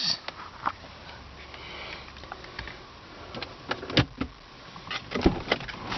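Scattered light clicks and knocks from hands on the interior trim of a car cabin, most of them around four and five seconds in, over a faint steady hum.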